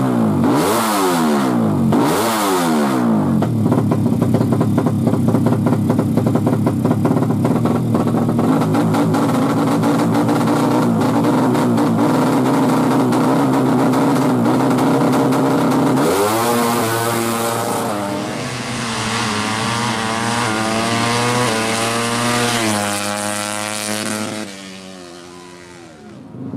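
Yamaha MX King's single-cylinder four-stroke engine, bored out to 200cc, blipped up and down twice at the start and then held at high revs for a long stretch. Later the revs waver up and down and the sound fades away near the end.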